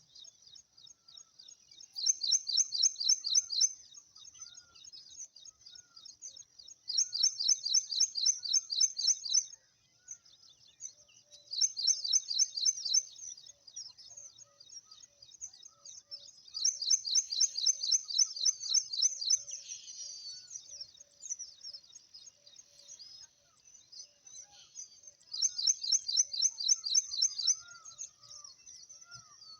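A bird calling: bursts of rapid high chirps, each lasting about two seconds and repeated every few seconds, with softer chirps in between.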